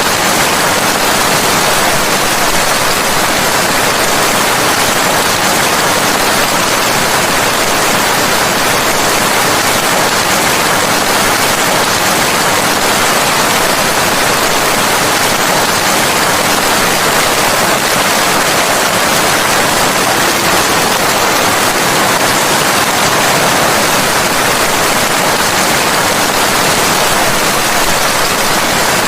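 Steady heavy rain, an unbroken even hiss.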